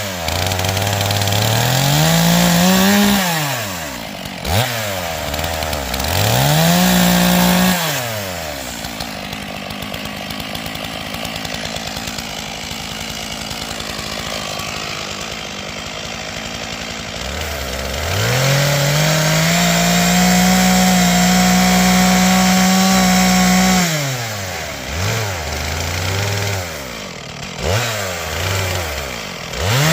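Stihl MS461 two-stroke chainsaw revved up to full throttle and back down in short bursts, then idling lower, then held at full throttle for about six seconds in the second half while bucking logs, before falling back again.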